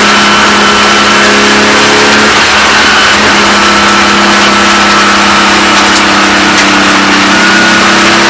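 Race car engine heard from on board, running loud at a steady high speed on track, its pitch holding nearly constant except for a brief break and step in pitch about two and a half to three seconds in, with wind and road noise throughout.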